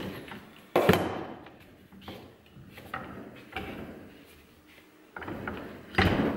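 Knocks and clunks of tools and strut parts being handled during a shock absorber and spring rebuild: a sharp loud knock about a second in, a few softer knocks, and another loud knock near the end.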